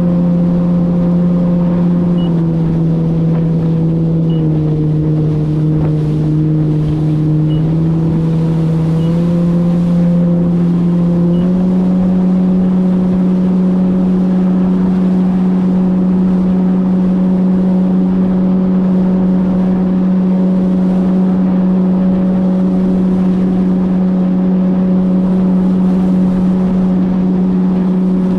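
Jet ski engine running at cruising speed, dropping in pitch twice as the throttle eases off, then picking back up about ten seconds in and holding steady, with rushing water and wind noise underneath.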